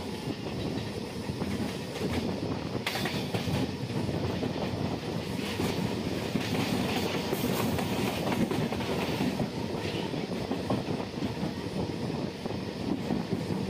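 Passenger train coach running along the track at speed, its wheels clattering over rail joints with a steady rumble. There is a sharper clack about three seconds in.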